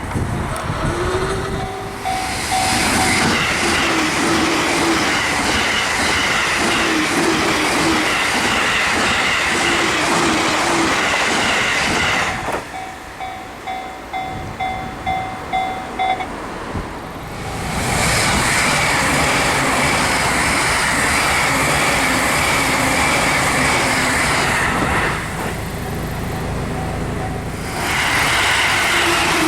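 Electric trains passing over a level crossing at high speed one after another, each a long loud rush of wheels and rails. Between the passes the crossing's warning bell dings rapidly and steadily.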